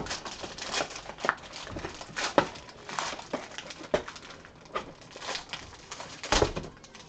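Handling noises of trading card boxes and packs being opened: irregular crinkles and clicks, with a louder knock about six and a half seconds in.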